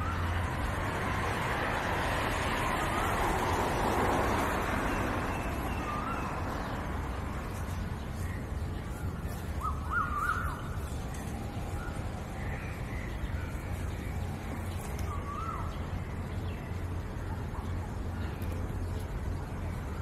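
Birds giving short, scattered calls a few seconds apart, the clearest about halfway through, over a steady low outdoor hum. A rushing noise swells over the first few seconds and then eases off.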